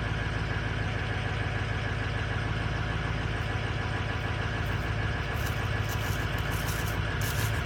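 Stock 2005 Ford F-350's 6.0 Power Stroke V8 turbo-diesel idling steadily about a minute after a cold start in below-freezing weather, with no block heater. A few short hissing sounds come in over it near the end.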